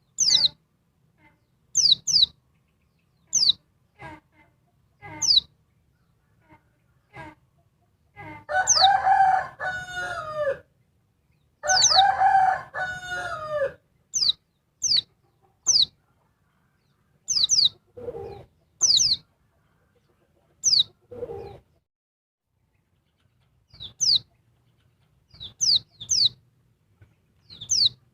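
Female pleci (white-eye) giving short, high, sharply falling call notes over and over, about one every second or two: the calling of a female to draw males. A rooster crows twice in the middle, about 8 and 12 seconds in; these crows are the loudest sounds.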